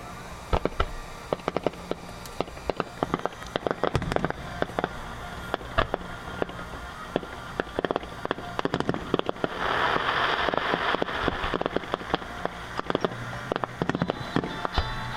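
Fireworks and firecrackers going off, many sharp pops in quick, irregular succession, with a dense spell of crackling about ten seconds in.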